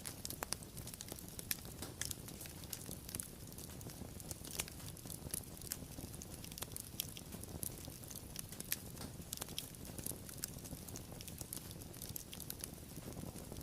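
Wood fire crackling steadily, with frequent irregular sharp pops and snaps over a low, even rumble of burning.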